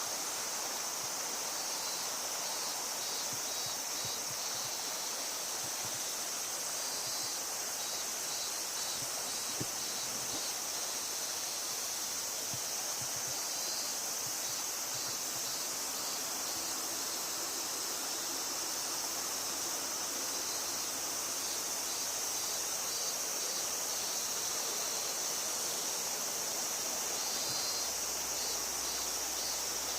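Steady flowing river water, with a steady high-pitched drone over it and a few faint high chirps now and then.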